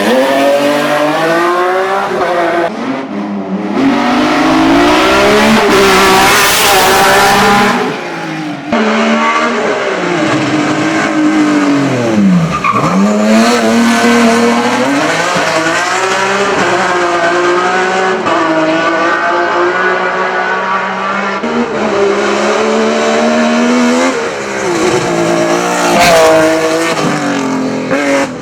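BMW E30 hill-climb prototype race car driven hard, its engine pitch climbing through the gears and dropping sharply again and again on shifts and braking. A stretch of tyre noise comes about six seconds in.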